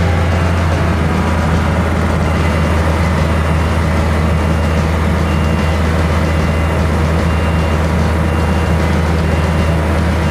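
A machine's engine running steadily at a constant speed, just after starting, with a high-pitched warning beeper sounding short beeps about once a second, like a backup alarm.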